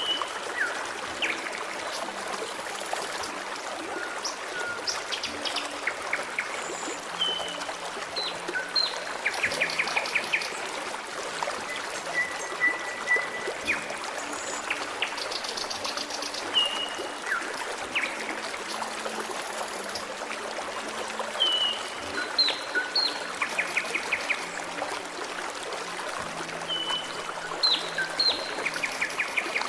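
Forest stream trickling steadily, with songbirds calling over it: repeated short chirps, whistled notes and several quick trills.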